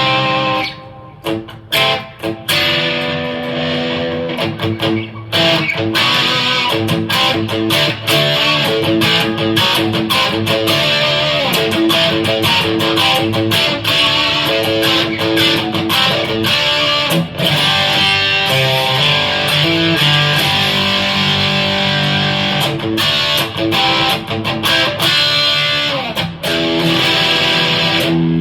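Electric guitar played through a Donner Dark Horizon distortion pedal set to about 25% gain. A few short chords with gaps come first, then about five seconds in, continuous riffing with held notes.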